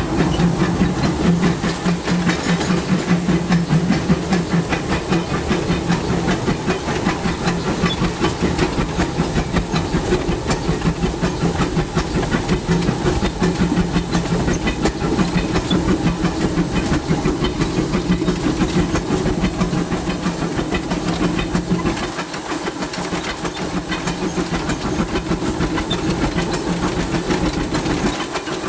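Oil-fired steam locomotive heard from inside its cab while running: a steady hiss of steam with a low hum and a fast rattle. The low hum eases off about 22 seconds in.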